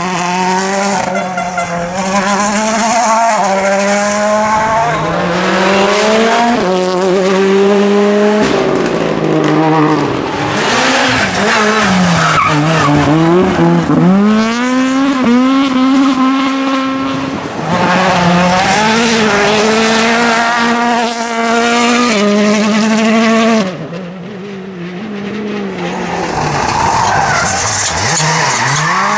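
World Rally Car engines at full throttle, each climb in pitch ending in a sudden drop at an upshift, with a dip for braking and downshifts about halfway through. About 24 s in the sound falls away, then another car comes up loudly near the end.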